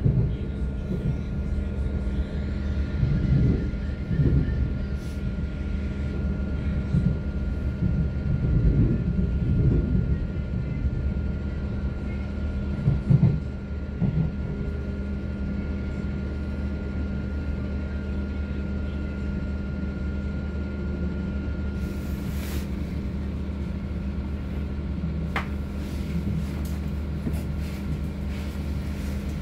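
Electric passenger train heard from inside the carriage: a steady low rumble and hum of the wheels and traction, with a thin steady whine that fades out about two-thirds of the way through. The rumble surges unevenly at first, then settles into a smoother, slightly quieter run with a few faint clicks.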